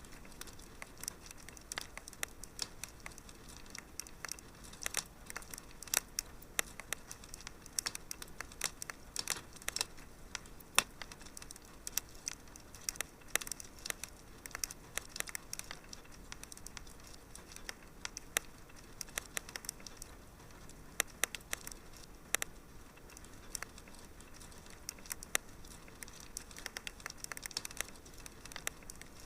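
Wood fire crackling in a fireplace: a low steady hiss with many sharp, irregular pops and snaps.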